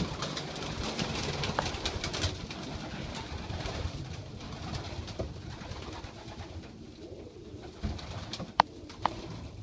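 Racing homing pigeons cooing in a loft, with a couple of sharp knocks near the end.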